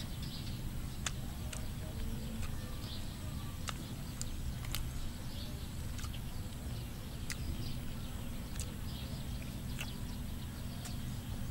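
A person chewing and smacking while eating, close up: irregular sharp mouth clicks over a steady low background noise.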